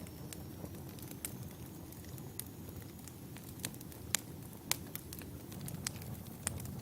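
Wood fire burning, logs crackling with irregular sharp pops and snaps, the loudest two about four and a half seconds in, over a low steady rumble of the flames.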